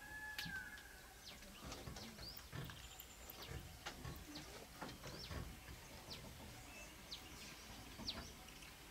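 Wild birds chirping, with many short, quick calls scattered throughout and one longer whistled call right at the start, over faint low rustling.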